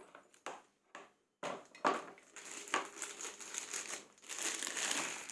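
Plastic packaging crinkling and rustling in irregular handfuls as the jigsaw is unwrapped, with a few sharp crackles in the first second and a half.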